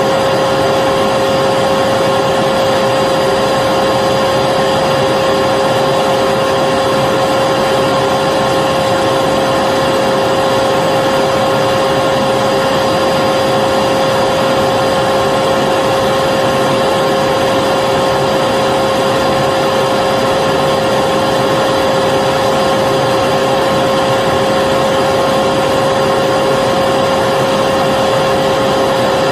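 Vacuum cleaner running steadily: an unchanging motor whine with a strong steady pitch over the rush of air.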